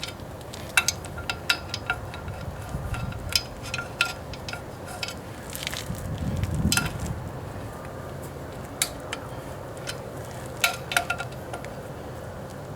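Metal tools and parts clinking and clicking during hands-on engine work: a dozen or so sharp, irregular metallic clinks, some with a brief ring, and a duller low rumble of handling about halfway through.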